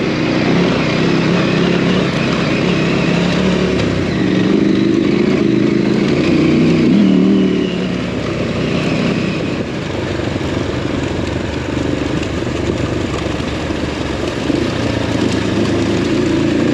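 KTM adventure motorcycle engine running under way, pulling harder for a few seconds and then easing off about eight seconds in.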